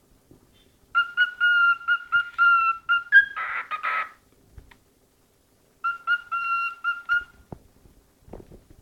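Cockatiel whistling its song: a run of short, evenly repeated whistled notes, a brief harsher noisy sound, a pause, then a second run of the same repeated notes.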